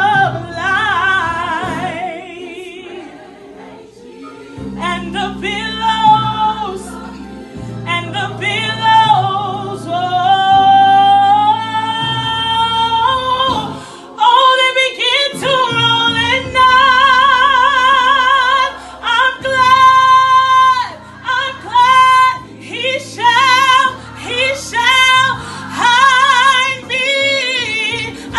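Gospel solo singing: a voice ad-libbing melismatic runs and long held notes with wide vibrato, over sustained low chords of the accompaniment.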